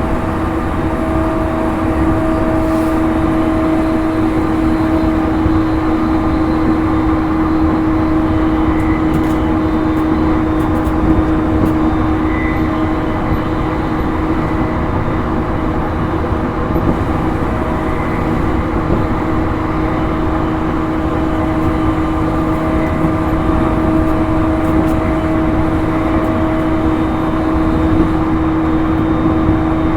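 Interior running sound of a JR East E231-series electric multiple unit, heard in a motor car, moving at steady speed. There is a constant rumble of wheels on rail with a steady, unchanging whine.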